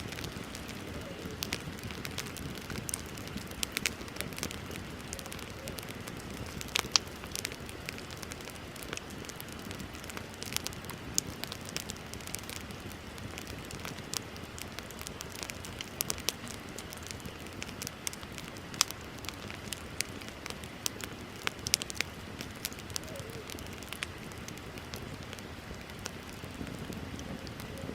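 Wood bonfire burning, with a steady low rush of flame and irregular sharp crackles and pops from the burning wood, several a second.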